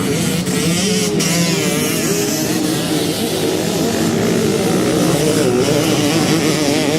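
Motocross bike engine running hard, its pitch rising and falling again and again as the throttle is worked.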